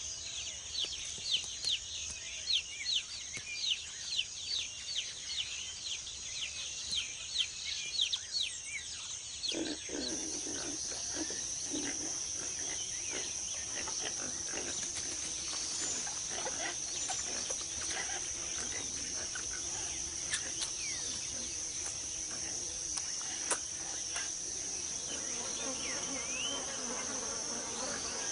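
Rainforest ambience: a steady, high-pitched chorus of insects. In the first ten seconds a quick run of short, falling calls repeats about twice a second. Then the chorus grows denser, with scattered lower calls.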